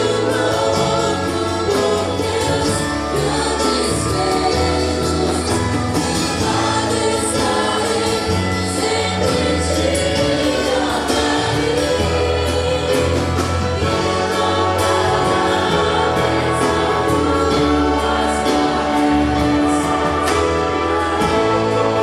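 Choir singing a Christian gospel worship song with instrumental accompaniment.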